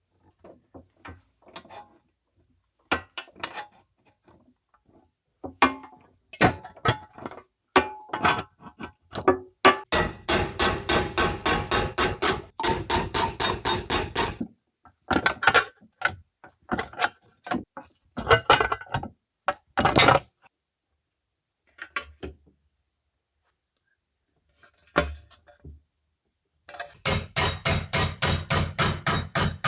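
A hammer striking sheet metal, each blow ringing. Scattered single taps give way to quick runs of about four strikes a second, one in the middle and another near the end.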